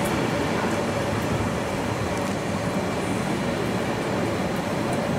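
Train: steady, even running noise with a faint constant hum, its level unchanging throughout.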